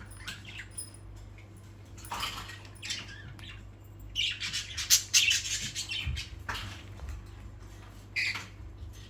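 Pet parrots squawking in harsh, separate calls, the loudest and longest run about four to six seconds in.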